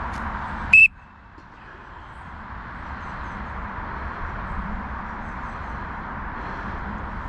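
A single short, high-pitched whistle blast, loud and clear, about a second in: a falconer's recall signal to a golden eagle. A steady rushing background noise runs throughout; it drops away right after the blast and slowly builds back.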